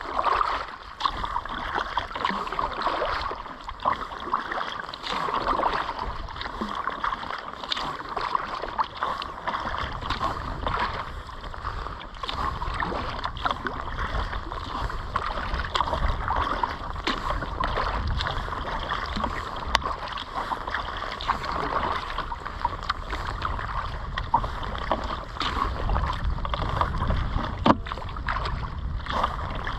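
Kayak paddle strokes dipping and splashing, with water rushing along the hull. A low wind rumble on the microphone joins about ten seconds in.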